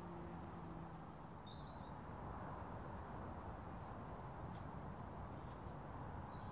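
Small birds chirping faintly, a short flurry of high chirps about a second in and a few single chirps later, over a steady low outdoor background hiss.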